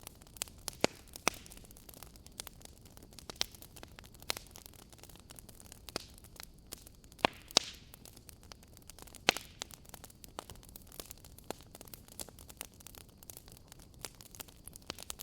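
Wood fire burning in a fireplace: a soft steady hiss with irregular sharp crackles and pops, a few loud snaps among them.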